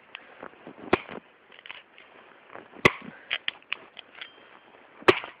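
Axe chopping frozen wood: a few sharp, separate strikes a second or two apart, the loudest about three seconds in, with lighter clicks of wood chips in between.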